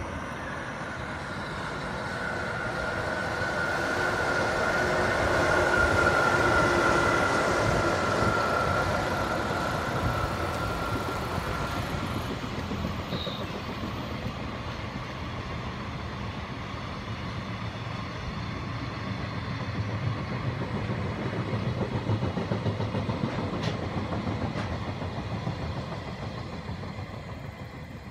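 JR Freight EF66 electric locomotive passing with a steady whine that fades after about twelve seconds, then a long string of freight wagons rolling by with a continuous rumble and clatter of wheels on rail.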